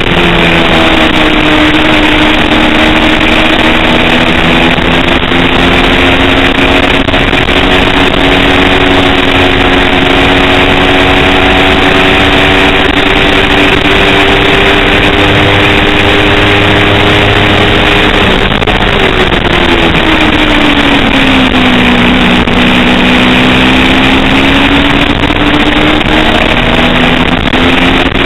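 Kawasaki Ninja 250 race motorcycle engine at high revs, its pitch climbing slowly for about eighteen seconds, then dropping sharply as the bike slows, and climbing again near the end. A loud rushing noise runs under it throughout.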